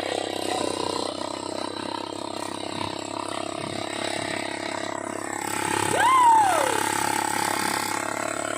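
ATV engine running steadily. About six seconds in there is one loud whoop that rises and then falls in pitch.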